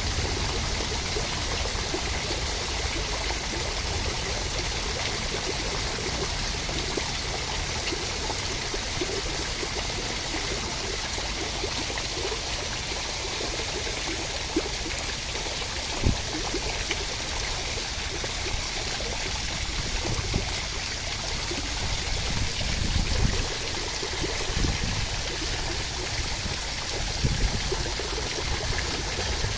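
Steady rushing water, an even hiss without pause, with a few brief low knocks in the second half.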